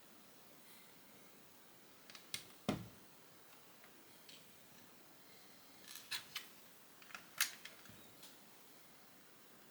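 Plastic Lego bricks being handled and pressed together, giving a few sharp clicks. There is a pair of clicks about two and a half seconds in, the second with a dull knock against the table, and a quick cluster of clicks around six to seven and a half seconds.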